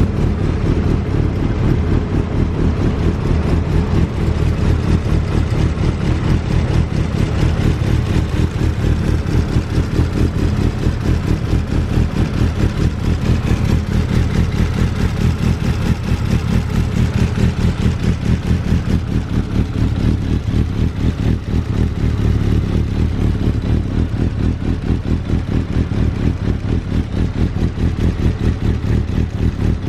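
Honda CB1000SF's inline-four engine running steadily at idle through an aftermarket WM carbon muffler, with a deep, even pulsing exhaust note.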